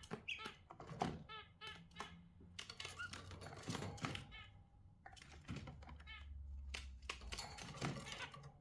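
Budgerigars chattering in a cage: short warbled chirps mixed with rapid, irregular clicks and taps.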